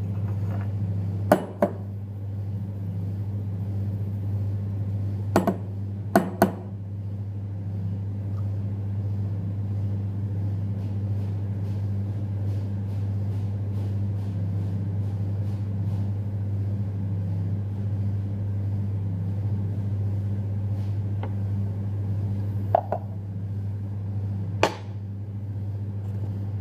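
Steady low machine hum with a few sharp clinks: two about a second in, three around five to six seconds in, and two near the end.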